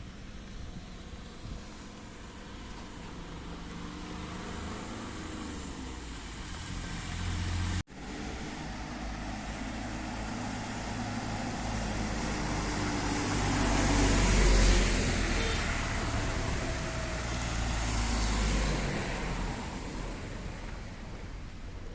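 A motor vehicle passing on a wet road in the rain: engine rumble and tyre-spray hiss swell to a peak about two-thirds of the way through, ease off, swell briefly again and fade. The sound cuts out for an instant about eight seconds in.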